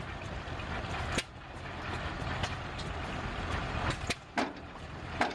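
A running machine's steady low rumble, with five sharp knocks at uneven intervals.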